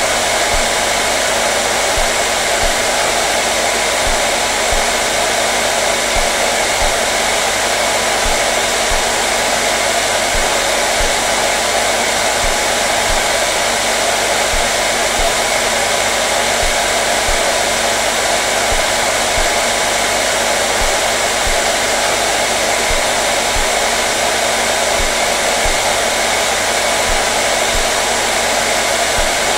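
Hair dryer running continuously at a steady speed: an even, unbroken rush of air with a faint motor hum.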